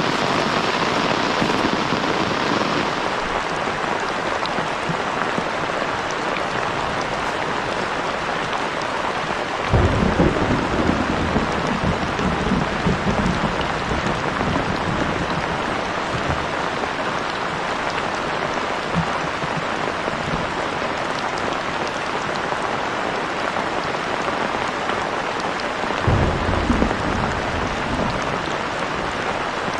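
Steady heavy rain falling, with two low rumbles: a longer one about ten seconds in and a shorter one near the end.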